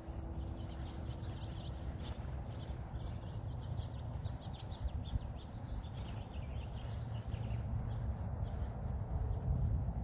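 Small birds giving short, high chirps, most of them in the middle stretch, over a steady low rumble.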